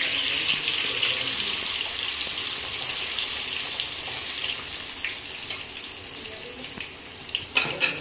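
Marinated chicken 65 pieces deep-frying in hot oil in an aluminium kadai, a dense steady sizzle that eases gradually as the oil settles. A few sharp clicks near the end, the metal spatula against the pan.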